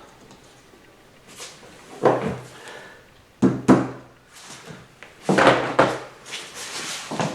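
Tools being handled while searching for a different tool: a series of knocks and clatters, two sharp ones in quick succession about halfway through and a longer clatter near the end.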